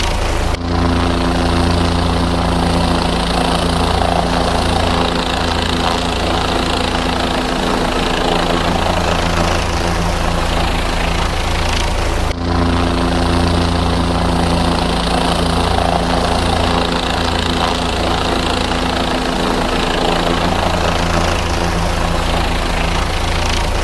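Helicopter engine and rotors running steadily with a constant hum and whine. There are two brief breaks in the sound, about half a second in and about halfway through.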